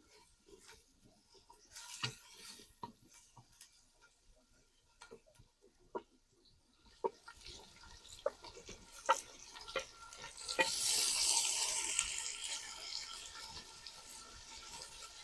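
Cooking utensils clicking and knocking against a pan, then about ten seconds in a sudden hiss that slowly fades over several seconds.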